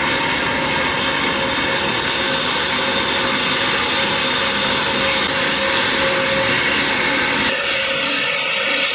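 Handheld plasma cutter cutting sheet steel: a loud, steady hiss of air and arc that jumps louder about two seconds in as the cut gets going.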